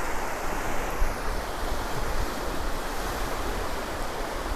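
Surf washing onto a sandy beach, a steady hiss of waves, with wind buffeting the microphone as a low, uneven rumble.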